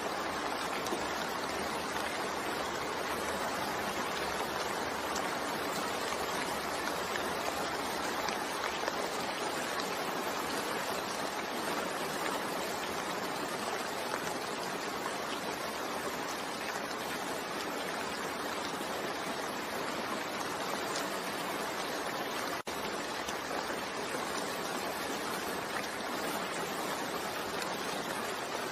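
Steady rain falling, a continuous even hiss with faint scattered patter, broken by a momentary dropout about two-thirds of the way through.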